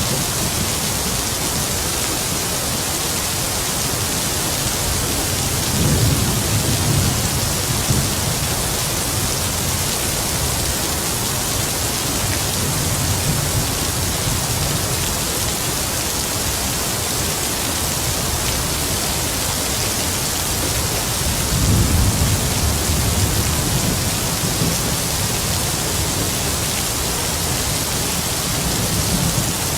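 Heavy rain falling steadily, with two low rumbles of distant thunder, one about six seconds in and another a little past twenty seconds, each lasting two or three seconds.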